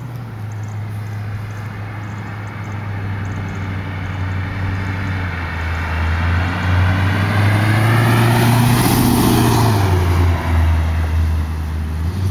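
Cammed 2004 Pontiac GTO's 5.7 L LS1 V8, breathing through long-tube headers, an X-pipe and factory 2005–06 mufflers, driving by: the exhaust rumble grows louder as the car approaches, peaks about nine seconds in, and drops in pitch as it passes and pulls away.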